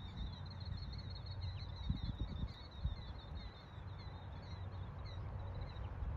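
Small birds chirping, a dense run of short high calls that thins out after about four seconds, with a few scattered higher notes. Underneath is a low rumble with a few brief bumps.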